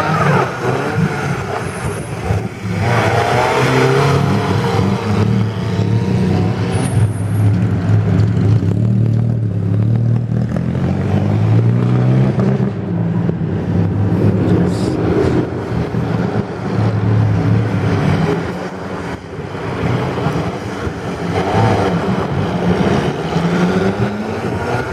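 Small vintage car engine revving up and down as the car is driven in short bursts at low speed, its pitch rising and falling repeatedly.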